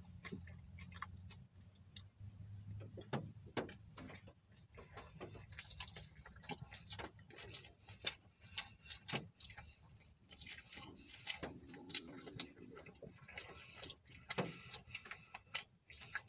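Close-up chewing with wet lip smacks: a string of irregular soft clicks and smacks from a mouth eating.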